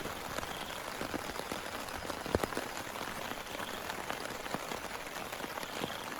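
Steady rain falling, with many separate drop hits and one louder hit a little over two seconds in.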